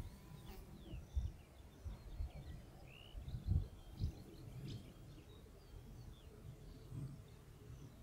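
Small birds chirping faintly and sporadically, with short high calls scattered through, over an uneven low rumble with occasional soft thumps.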